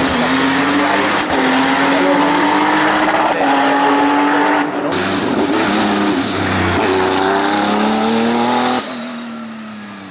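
Race car engines at full throttle on a hillclimb, revving up and dropping at each upshift, in several short passes cut together. The engine sound falls away near the end.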